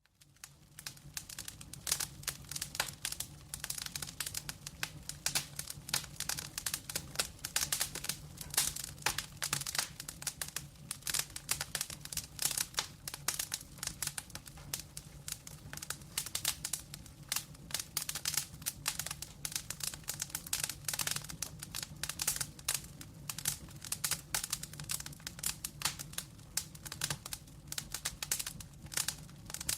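Wood fire crackling, a dense run of irregular pops and snaps over a low steady rumble, fading in over the first second.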